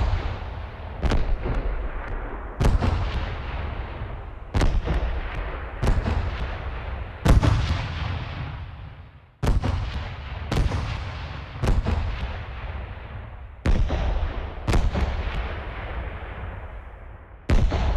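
Fireworks going off: about a dozen loud booms at uneven intervals of one to two seconds, each followed by a long fading rumble and crackle.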